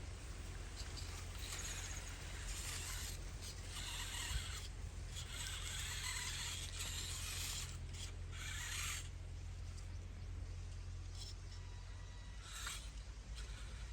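Remote-control toy tractor working in soil: a steady low hum under several bursts of gritty scraping and rustling as loose soil is scooped and moved.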